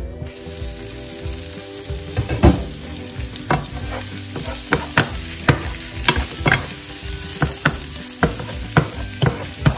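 Shrimp frying in a non-stick pan, a steady sizzle that opens up as the glass lid comes off. From about two seconds in, a wooden spatula knocks and scrapes against the pan as the shrimp are stirred, about once or twice a second.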